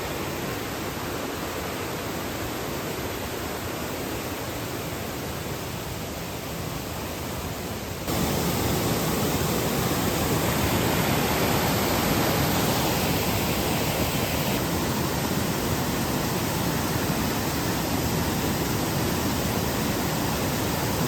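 Valley stream water rushing steadily. About eight seconds in it suddenly becomes louder and stays so.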